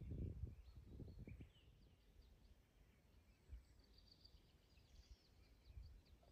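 Faint birdsong: scattered chirps and short twittering phrases, densest a little past the middle, over a low rumble that fades out in the first second and a half.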